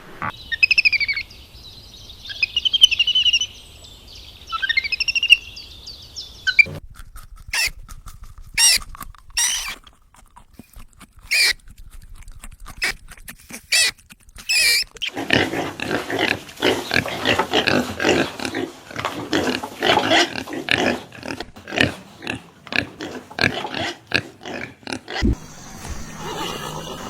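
A series of animal calls. First comes about six seconds of high, warbling, gliding bird-like song. Then a run of separate short calls follows, and from about fifteen seconds in, a dense stretch of rapid grunting and squealing calls.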